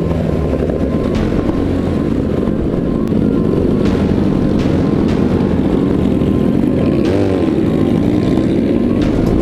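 Vehicle engines running loudly, with a quick rev up and back down about seven seconds in.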